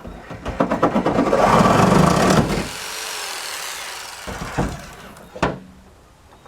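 Electric jigsaw running against sheet metal, its blade chattering and hammering rather than cutting because the blade is too long. After about two and a half seconds it eases to a fainter steady run that fades out, followed by two sharp knocks.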